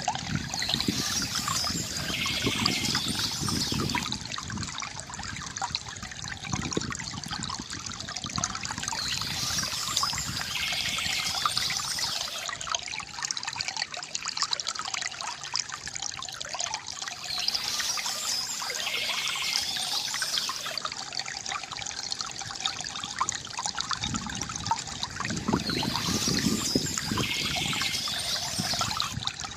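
River water gurgling and trickling steadily, with small birds chirping over it in short clusters that come back about every eight to nine seconds.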